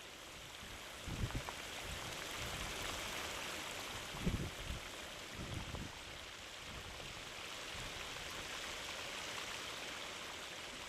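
Hot water from Fly Geyser jetting and splashing continuously down its mineral cones, a steady rushing hiss. A few brief low thumps come about a second in and again around four and five and a half seconds.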